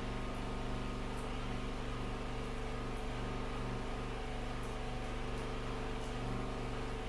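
Steady low mechanical hum made of several constant tones, over a light hiss, with a few faint ticks.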